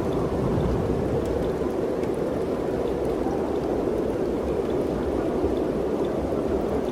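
Mountain wind blowing steadily: an even rushing noise with a low rumble underneath and no gusts rising or falling.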